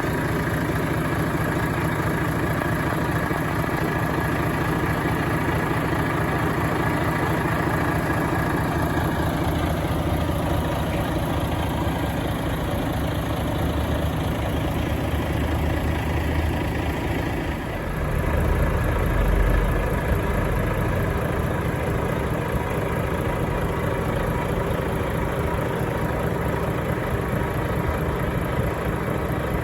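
Volvo FH 540 tractor unit's 13-litre straight-six diesel idling steadily. About 18 seconds in the sound shifts, briefly turning louder with a deeper rumble for a few seconds before settling back to a steady idle.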